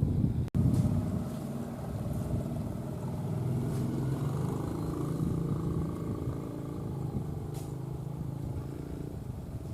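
An engine running steadily with a low hum that holds its pitch, cut in abruptly about half a second in.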